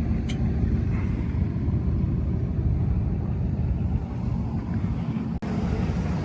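Vehicle engines idling, a steady low rumble with a faint steady hum, briefly cut off about five seconds in.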